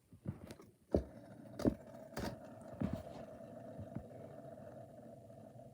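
A small motor hums steadily, with several sharp clicks and knocks in the first few seconds, from the model hit-and-miss engine and toys being handled.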